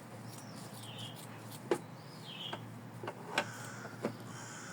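Scissors snipping through felt, a few separate sharp snips, while a small bird gives two short falling chirps in the background.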